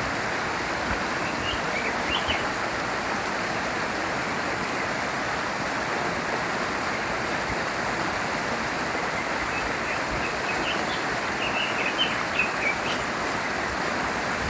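A small stream flowing steadily, with brief small-bird chirps about two seconds in and a few more near the end.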